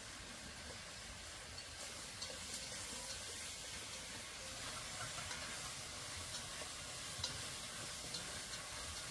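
Food sizzling while frying, a steady hiss with a few faint light clicks.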